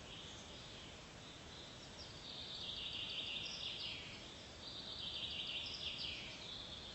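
Outdoor nature ambience: a high, dense chirping chorus over a steady hiss, swelling louder twice.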